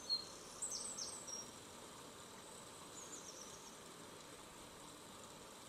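Faint bird chirps, a few short high calls near the start and again about three seconds in, over a steady soft hiss of outdoor ambience.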